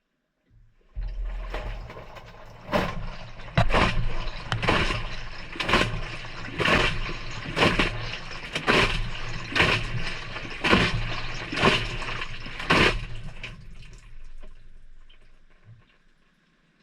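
Maytag front-loading washer drum turning through a delicate-cycle wash tumble, heard from inside the drum. A low motor hum starts about a second in, water sloshes and splashes about once a second for around ten seconds, then it fades as the drum stops.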